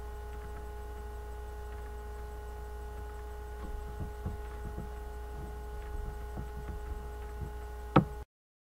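Steady electrical mains hum with faint steady whining tones, broken by a few faint soft ticks. Near the end comes one sharp click, and then the sound cuts off abruptly.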